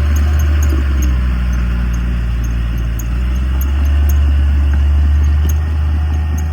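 Heavy diesel engine of earthmoving machinery running with a steady low drone, growing a little louder about four seconds in.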